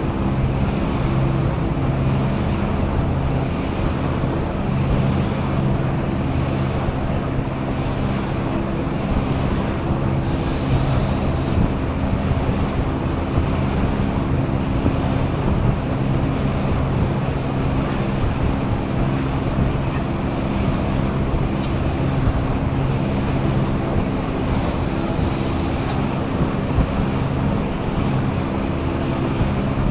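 Passenger shuttle boat underway: its engine running with a steady low hum, over water rushing past the hull and wind buffeting the microphone.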